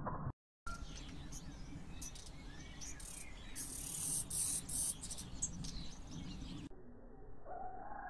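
Black redstarts calling: short, very high, thin chirps repeated over a steady outdoor background.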